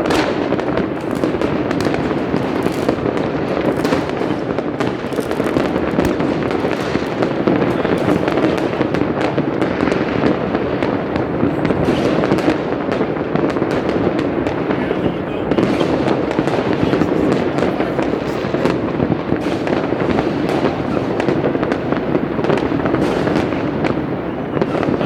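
Citywide New Year's Eve fireworks, many displays going off at once: a continuous din of overlapping bangs and crackles with sharp reports popping out of it, never letting up.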